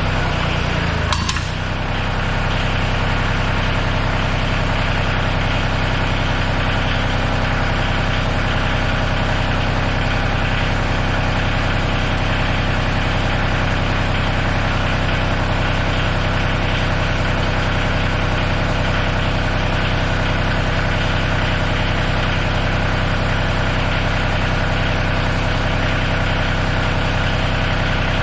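Tractor engine idling steadily. About a second in there is a sharp click and the engine note shifts, then it settles into an even idle.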